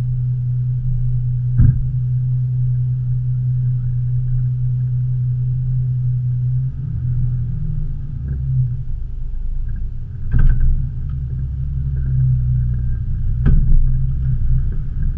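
Four-wheel drive's engine idling steadily, then pulling away under load about seven seconds in with a car in tow on a strap, its note turning lower and rougher. Three sharp knocks come through along the way.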